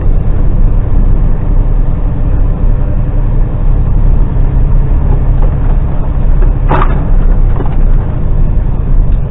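Articulated lorry's diesel engine working hard under load, climbing a very steep hill, heard from inside the cab as a loud, steady low drone. A single sharp click about seven seconds in.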